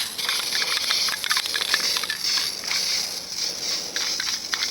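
Aerosol can of Rust-Oleum metallic spray paint hissing as it sprays, in a run of spurts that swell and ease off.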